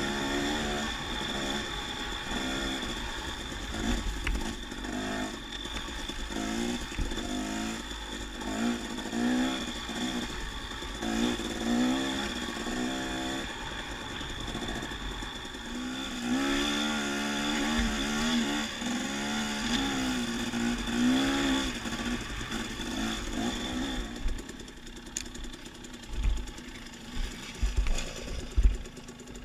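Dirt bike engine running on a trail ride, its pitch rising and falling with the throttle as the rider works the bike. Near the end the engine drops off and a few low thumps stand out.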